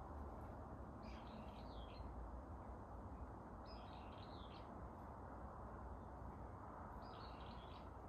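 A songbird singing three short warbled phrases, each under a second long and about three seconds apart, over a steady low background of wind in the forest.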